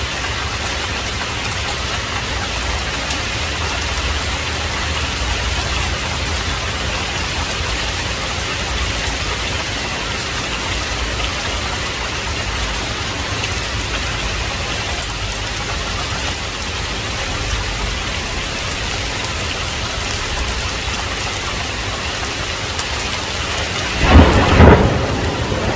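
Heavy rain falling steadily, then a sharp clap of thunder near the end: a sudden double crack lasting about a second, the loudest moment.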